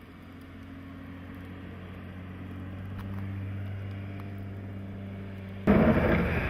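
A car engine running steadily and slowly getting louder. About five and a half seconds in, a much louder rushing noise cuts in suddenly.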